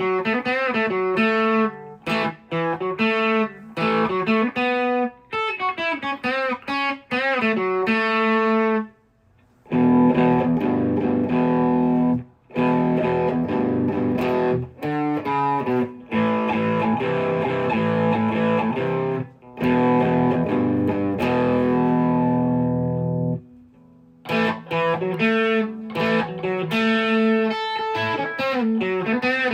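Gretsch electric guitar on its bridge pickup, played through a close-miked amp: picked single-note lines with wavering pitch, then a gap and sustained strummed chords from about ten seconds to about twenty-three seconds, then picked lines again.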